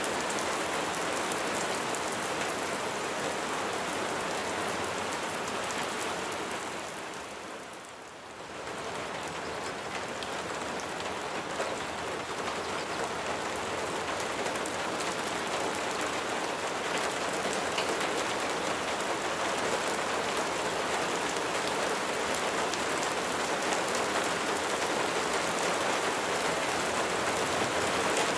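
Steady rain falling, an even dense patter, which dips in loudness briefly about eight seconds in and then comes back.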